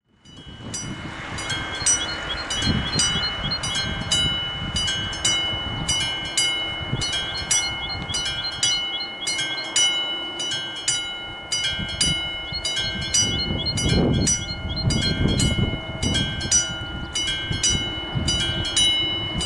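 Czech level-crossing warning bell of the classic mechanical type ringing continuously, its clapper striking about twice a second with each stroke ringing on. A low rumbling noise builds under it in the last few seconds.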